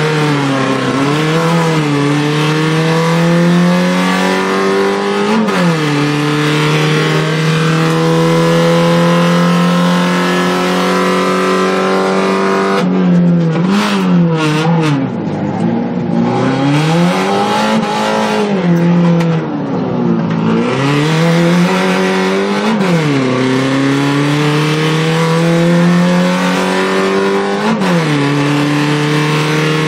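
Fiat Punto Cup rally car's engine heard from inside the cabin, pulling hard with the pitch climbing steadily through each gear and dropping sharply at upshifts, about five seconds in and twice near the end. In the middle the pitch falls and rises several times as the car slows for a run of corners and accelerates out again.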